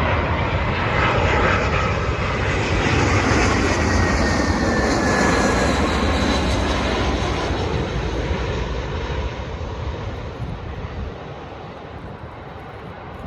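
Airbus A319 jet airliner flying over on its landing approach. The engine roar builds, peaks a few seconds in, then fades away, with a high whine that falls in pitch as it goes by.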